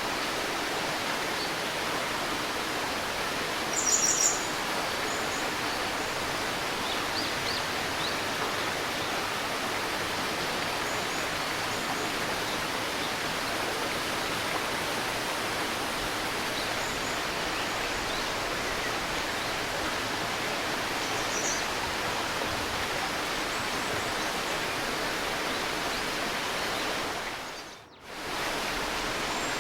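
River babbling in a steady rush of water, with songbirds chirping now and then. One louder burst of high chirps comes about four seconds in. Near the end the water sound briefly dips away and comes back.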